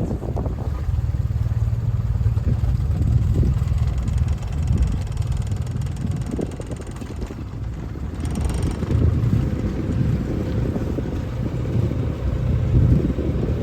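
Wind buffeting the microphone: a loud, steady low rumble that swells and eases.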